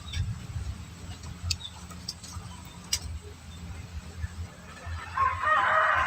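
A bird call lasting about a second near the end, pitched and wavering, over a low steady rumble and a few faint clicks.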